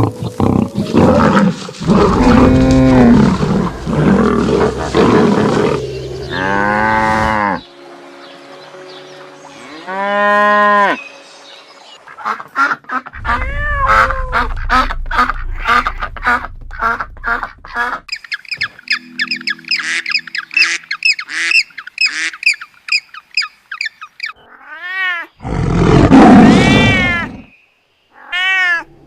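A series of different animal calls played one after another: a rough, noisy call first, then several pitched calls, a long run of rapid high chirps, and one more loud call near the end.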